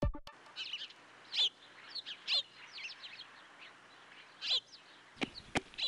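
Birds chirping in short, scattered calls over a faint background hiss. Near the end, footstep taps start at a steady walking pace, about three a second.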